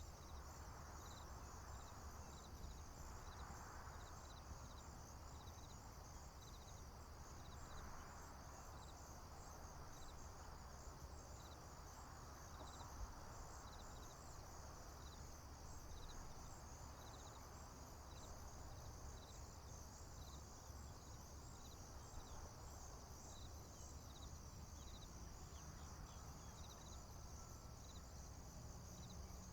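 Faint, steady chorus of crickets and other insects: a continuous high trill, with a lower chirp repeating about once a second. Underneath are a low rumble and soft swells of distant background noise.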